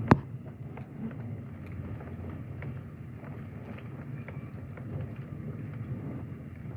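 Steady rain falling, with scattered drops tapping, and one sharp knock just after the start.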